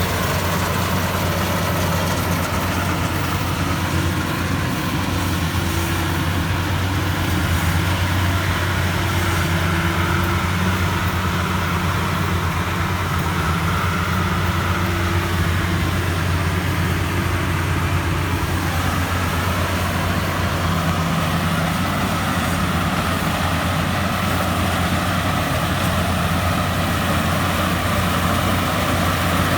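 Rice combine harvester, a Maxxi Bimo 102, running steadily with an unbroken low engine hum and machinery noise that keeps an even level.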